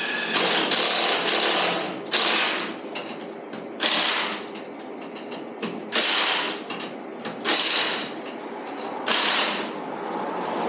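A ratchet worked in six strokes, each a rasping ratcheting burst about a second long, roughly every one and a half to two seconds.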